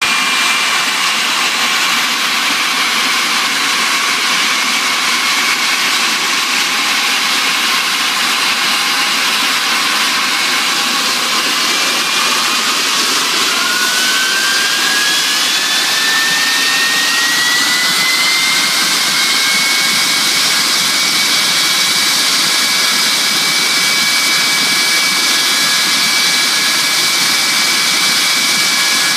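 Ilyushin Il-86's Kuznetsov NK-86 turbofan engines during engine start: a steady loud rush with a high whine. About halfway through, a second whine rises in pitch over several seconds and then levels off, as another engine spools up.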